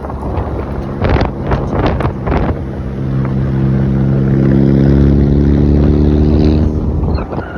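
Hyundai Genesis Coupe 2.0T's turbocharged four-cylinder running through a Tomei titanium single exhaust, holding a steady droning note under load. It builds to its loudest in the middle and drops off shortly before the end. A few sharp clicks come about a second in.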